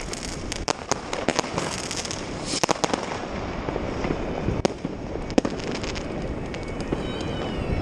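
New Year's fireworks and firecrackers going off all around: many sharp bangs and cracks over a steady background of distant explosions, densest in the first three seconds and thinning out after.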